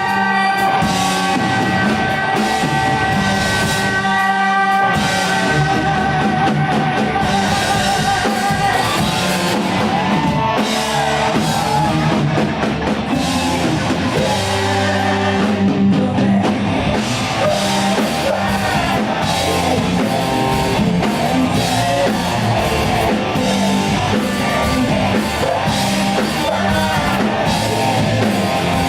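Rock band playing live through a concert PA: electric guitar and a drum kit, with singing.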